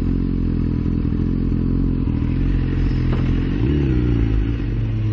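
Motorcycle engine running steadily while being ridden. The engine note shifts briefly about three and a half seconds in, then carries on at a slightly lower pitch.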